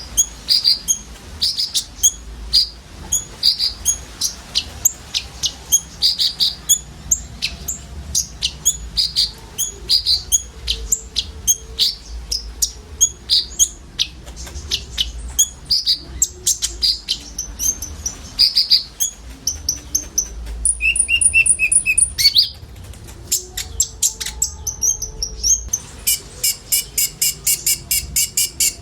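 Several sunbirds (konin) chirping together: short, high, sharp notes repeated about twice a second, with a buzzy trill about two-thirds of the way through and a fast run of notes near the end.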